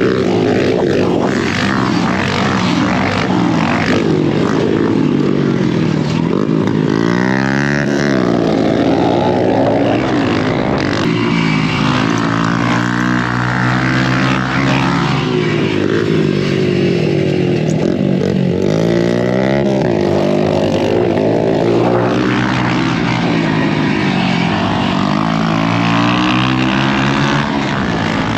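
Dirt bike engine heard on board, revving up and falling back again and again as it is ridden hard around a motocross track, over a constant rush of noise.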